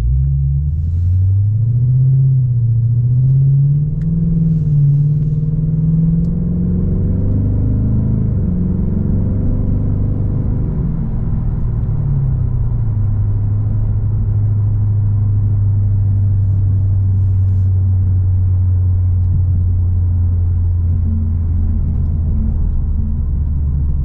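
Lexus IS 500's 5.0-litre 2UR-GSE V8 through an ARK GRiP catback exhaust, heard from inside the cabin. It accelerates with the engine note climbing and dipping through gear changes for about the first twelve seconds, then settles into a steady, lower cruising note.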